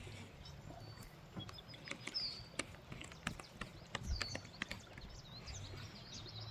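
Irregular sharp clicks and taps, some close together. A songbird calls a few short, high, downward-sweeping notes and twitters near the end.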